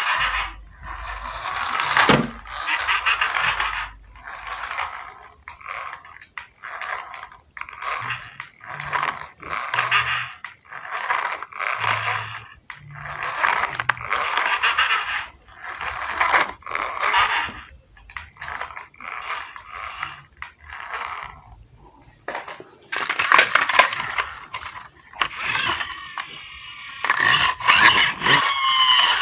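Small toy car wheels scraping and rolling over a hard surface in short repeated strokes, about one a second, getting louder and busier near the end.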